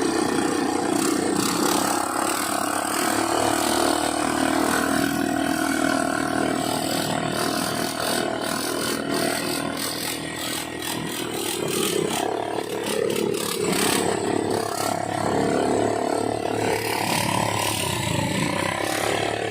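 ATV engine running as the quad is ridden, its note steady and then shifting about midway, with scattered knocks and rattles.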